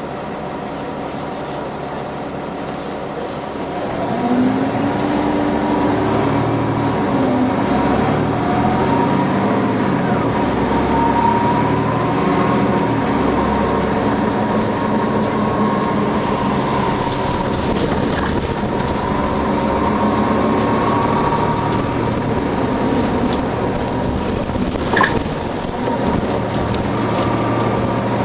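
Nova Bus TL-40102A low-floor city bus heard from on board: the engine idles, then about four seconds in it pulls away and the engine and transmission whine climb and drop back several times as it accelerates. A single sharp click near the end.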